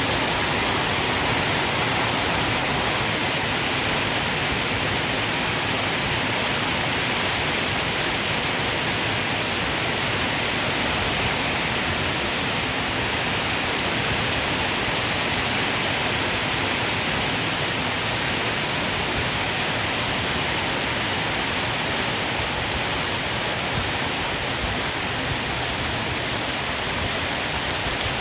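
Heavy rain pouring steadily in a storm: a dense, even hiss that stays at the same level throughout.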